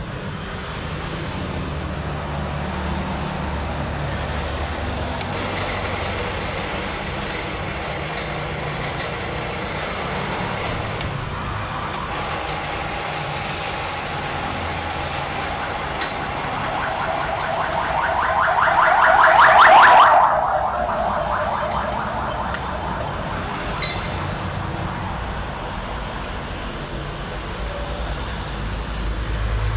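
Electric drill converted into a tapping machine, running steadily. About two-thirds through, a louder buzz with a fast rattle in it builds for a few seconds, then cuts off suddenly.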